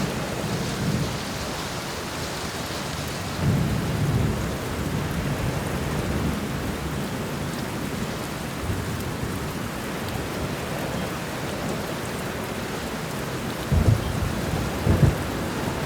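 Steady heavy rain falling, with rolling thunder rumbling underneath: a swell of thunder a few seconds in and two sharper cracks of thunder near the end.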